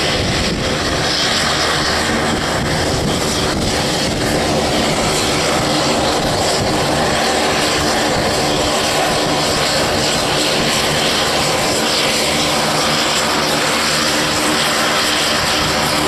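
Fixed-wing aircraft engines running loud and steady: an even rushing noise with a steady hum in it that holds throughout.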